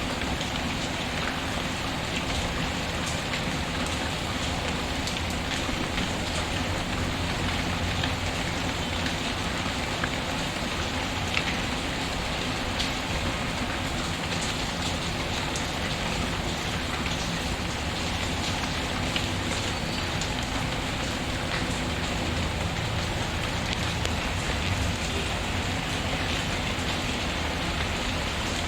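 Steady rain falling, with a few faint, scattered pops from a crackling wood fire.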